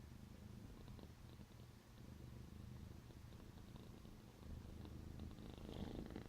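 Domestic cat purring softly, a low rumble that rises and falls with its breathing.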